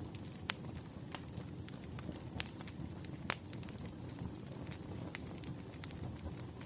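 Firewood burning, a steady low rumble of flame with frequent sharp crackles and pops; three louder pops stand out about half a second, two and a half, and three and a third seconds in.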